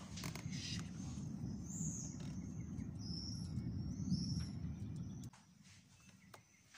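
Low, continuous rumbling of distant thunder from an approaching thunderstorm, which cuts off suddenly about five seconds in. A bird calls a few short whistled notes in the middle.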